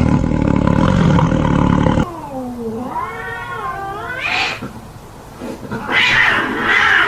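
Animal calls: a loud low rumbling roar that cuts off suddenly about two seconds in, then a long pitched call that dips and rises, like a cat's meow, and a harsher noisy call near the end.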